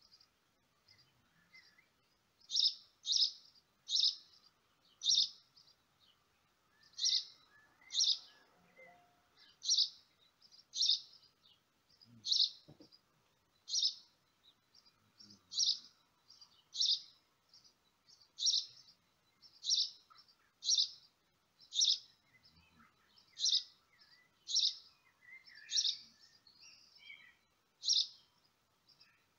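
A small bird chirping over and over: short, high chirps about once a second, with fainter chirps in between.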